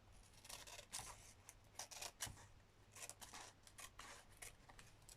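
Scissors snipping through craft material: a run of faint, short cuts at an uneven pace.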